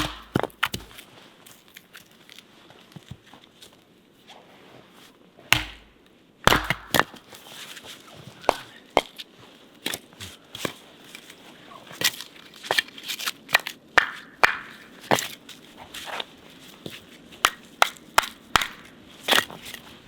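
A string of irregular sharp knocks and crunches, the loudest at the very start and again about six seconds in, then smaller ones coming every half second to a second.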